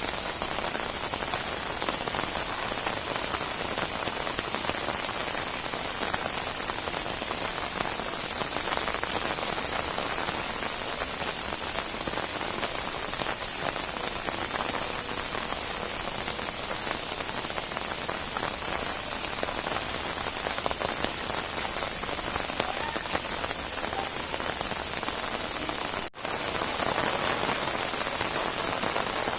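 Steady rainstorm: rain falling hard and evenly on surfaces, a dense hiss of drops. Near the end the sound drops out for a split second, then carries on.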